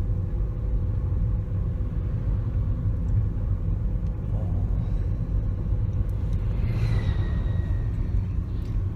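Car driving, heard from inside the cabin: a steady low rumble of engine and road noise, with a faint higher tone briefly about seven seconds in.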